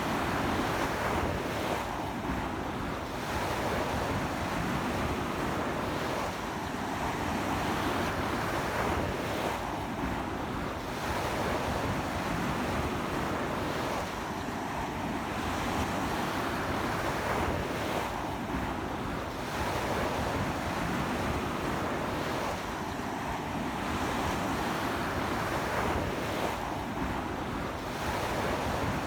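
Ocean waves washing onto a beach in a strong sea wind, the surf swelling and easing about every four seconds, with wind buffeting the microphone.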